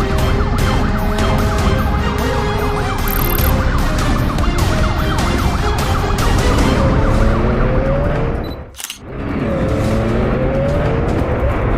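Police sirens wailing over traffic and engine noise, several sirens overlapping with rising and falling pitch. The sound cuts out briefly about nine seconds in, then the sirens resume.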